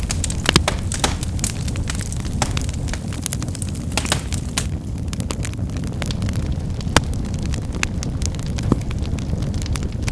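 Wood fire burning, with irregular crackles and snaps of firewood over a steady low rumble of the flames; a few louder pops stand out, one about seven seconds in.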